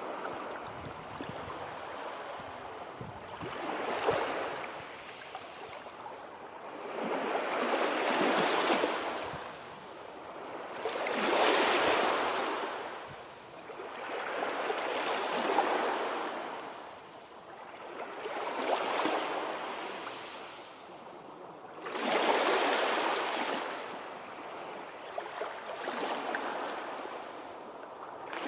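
Sea waves breaking on the shore one after another, each wash swelling and fading roughly every three to four seconds, about seven in all.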